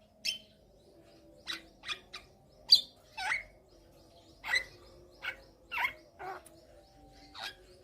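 Javan myna calling: a string of short, sharp chirps and whistled notes at irregular intervals, about a dozen in all.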